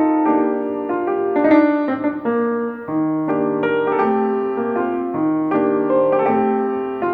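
Background music: a gentle solo piano piece playing a slow melody over chords.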